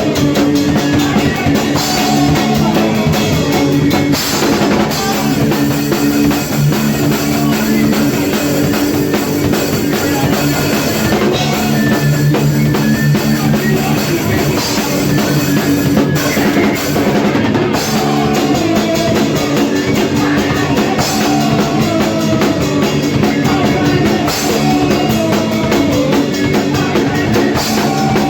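Hardcore punk band playing live: distorted electric guitar and bass over a full drum kit, loud and continuous, with 80s-style riffs.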